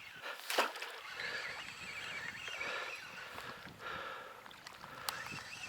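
Water sloshing and splashing as a hooked zander is played on a spinning rod, with a couple of sharp clicks.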